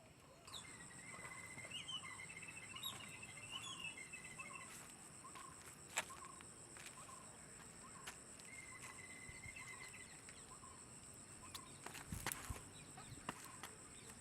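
Faint outdoor birdsong: short repeated call notes over a steady, high insect whine. A few sharp knocks come near the end.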